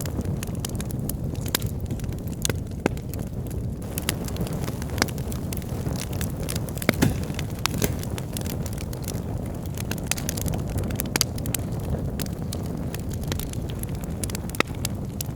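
Wood fire in a fireplace burning steadily with a low rush of flame, crackling with irregular sharp pops from the logs, a few louder pops about seven seconds in.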